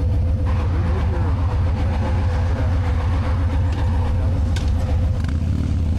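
Moving road vehicle running steadily: a loud low rumble with a held whine over it that fades out near the end.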